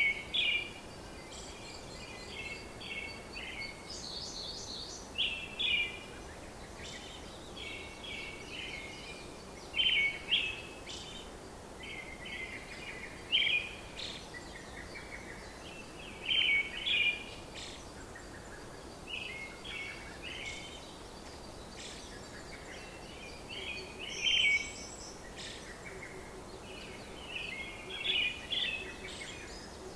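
Birds chirping, short runs of high chirps coming every second or two over a steady background hiss.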